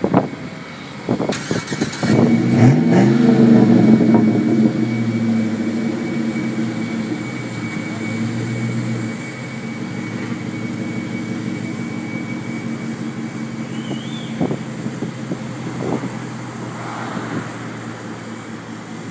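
Chevrolet Avalanche V8 with a Flowmaster 44 Series muffler and K&N air intake, starting about two seconds in. It flares up in revs, then settles into a steady idle through the exhaust.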